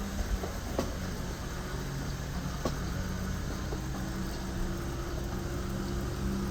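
Motor vehicle engine idling steadily, a low even hum with a couple of faint clicks over it.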